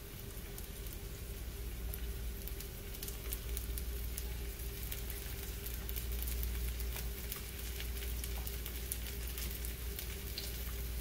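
Sliced mushrooms sizzling and crackling in hot oil in a frying pan as handfuls are dropped in; the crackling grows denser a couple of seconds in.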